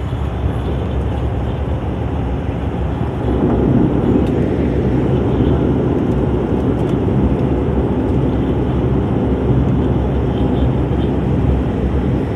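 Steady rumble of airliner engine and cabin noise heard from inside the passenger cabin, growing louder about three seconds in.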